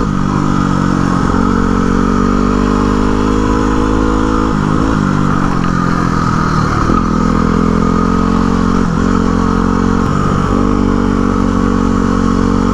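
Single-cylinder Yamaha WR dual-sport motorcycle engine running at a steady cruising pace, heard on board. The engine note dips briefly about four times.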